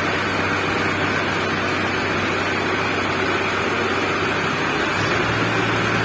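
Mahindra Arjun 555 tractor's diesel engine running steadily in a low, slow gear. Its note steps slightly higher about five seconds in.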